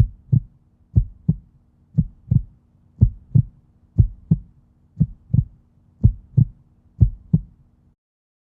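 Heartbeat sound effect: low double thumps, one pair a second, eight beats in all, stopping abruptly near the end.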